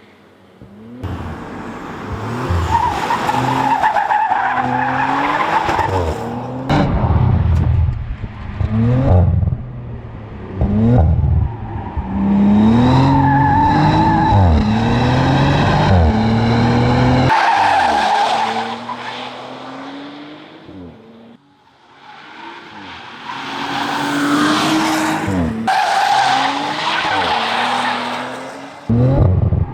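High-performance sports car engine and exhaust revving hard, its pitch climbing and then dropping at each gear change, with tyres squealing at several points. The sound breaks off sharply a few times, as between separate runs.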